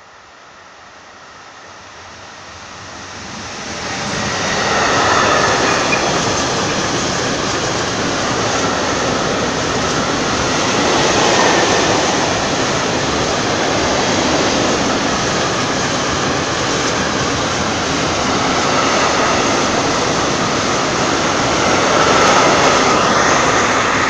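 Freight train of loaded tank wagons hauled by an electric locomotive, approaching and then passing close by. The noise of wheels on rail grows steadily over the first few seconds, then stays loud and even while the long string of tank wagons rolls past.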